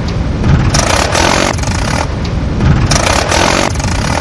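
Vehicle engine sound, revving in a pattern that repeats about every two seconds.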